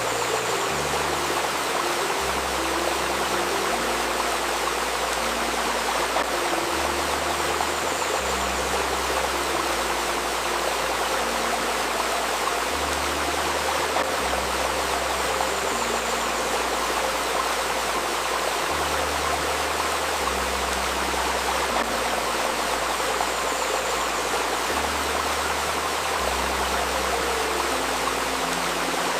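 Steady babbling of a river stream, with soft low sustained synthesized tones underneath that change pitch every two seconds or so.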